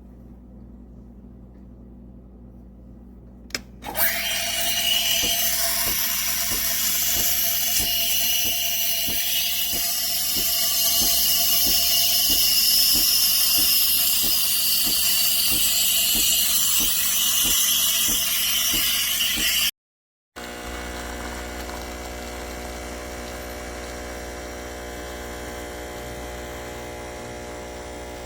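Espresso machine steam wand frothing milk: a loud, steady hiss begins about four seconds in, just after a click, with a regular ticking from the machine's pump underneath. The hiss cuts off abruptly a few seconds before the end and gives way to a steady electric hum.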